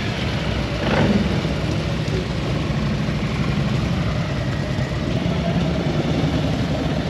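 Motorcycle engine running steadily, with a brief louder swell about a second in.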